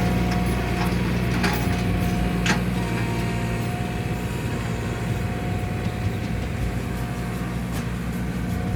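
Tractor engine running steadily, with a few scattered clicks and creaks.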